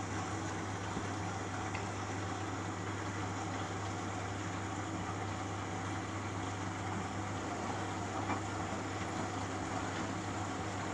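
Beko Eco Care WMA 1510 W washing machine running its third rinse with no cold water coming in, the fault the owner is showing: a steady low hum with a few faint clicks.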